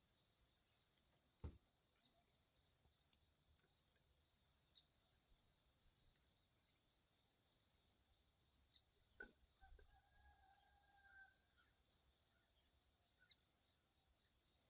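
Near silence, with faint scattered high-pitched chirps, two soft clicks and a brief faint tone about two-thirds of the way in.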